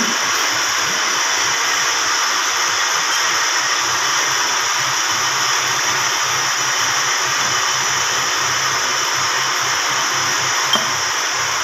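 Machine-shop grinding machine running steadily while working on a Toyota 5L cylinder head's camshaft, a constant hissing whir over a low hum, with one brief tick near the end.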